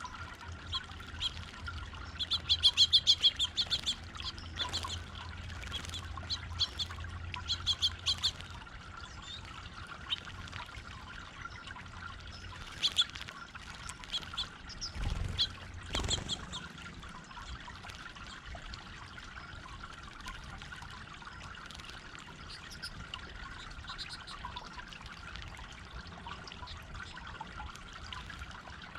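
Small birds chirping over the steady trickle of a garden water fountain, with a quick run of chirps about three seconds in as the loudest sound. A low thud comes about fifteen seconds in.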